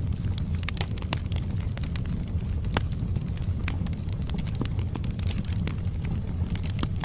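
Wood fire burning in a fireplace: a steady low rumble of flames with irregular sharp crackles and pops from the logs throughout.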